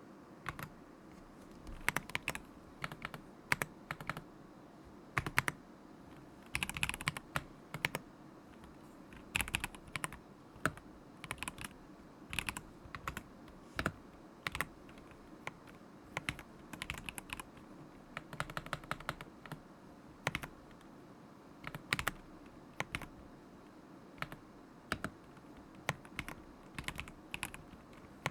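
Typing on a stock KZZI K75 Pro mechanical keyboard with Moment linear switches: clacking keystrokes in irregular bursts with short pauses between.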